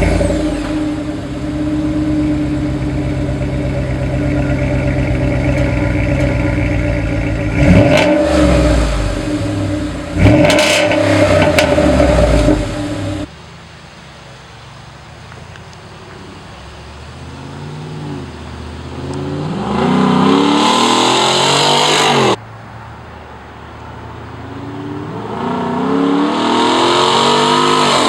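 2012 Ford F-150's 5.0 Coyote V8 through an aftermarket exhaust, idling just after starting, then blipped hard twice with quick rises and falls in pitch. After an abrupt cut, the truck accelerates twice, the engine pitch rising in sweeps through the gears.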